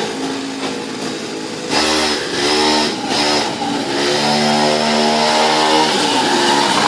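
Small petrol engine of a mini motorcycle (pocket bike) revving as it is ridden, faint at first, then louder from a couple of seconds in, its pitch rising and falling several times and dropping near the end.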